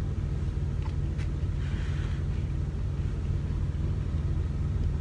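Steady low rumble of an idling semi-truck engine heard inside the cab, with a couple of faint clicks about a second in and a short rustle around two seconds.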